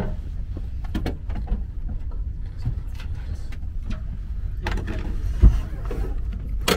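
Steady low rumble inside a high-speed train carriage, with light clicks and knocks of handling at the seat-back tray table, one dull thump about five and a half seconds in and a sharp click near the end.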